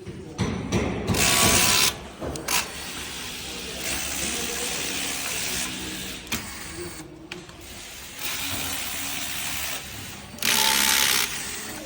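Mechanical noise of hand-held tools and parts being worked at a motor assembly station, with two loud rushing bursts, about a second in and near the end.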